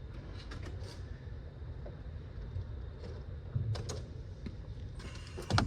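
Scattered clicks and knocks of hand work on an engine, with louder clatters about three and a half seconds in and again near the end, over a steady low hum.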